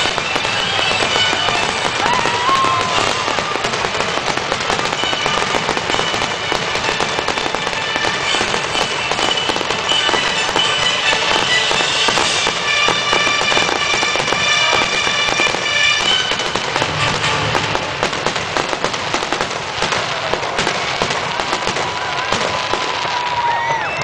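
Fireworks going off in dense, continuous crackling and banging, with music playing under them and held notes through the middle.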